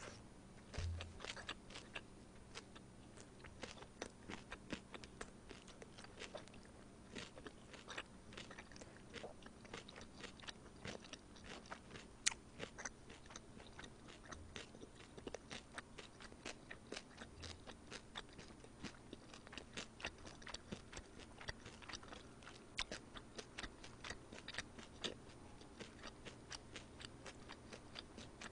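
Close-miked chewing: a faint, continuous run of small wet mouth clicks and soft crunches, several a second.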